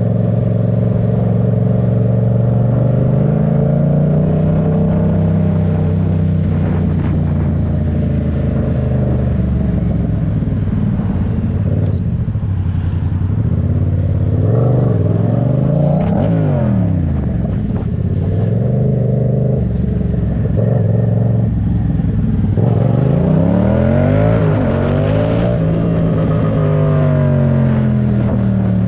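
Yamaha MT-07 parallel-twin engine under way, its pitch rising under acceleration and dropping at gear changes, several times over, with wind rumble on the microphone.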